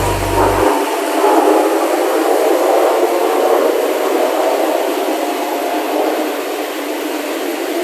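Jet aircraft noise, a loud, steady rushing roar that slowly eases toward the end. These are likely the Blue Impulse team's Kawasaki T-4 jets passing overhead.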